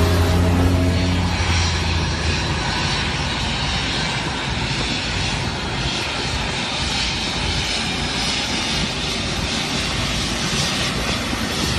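Fixed-wing aircraft's engines running loud and steady, with a low hum in the first second or so giving way to an even rushing noise, as heard during a landing.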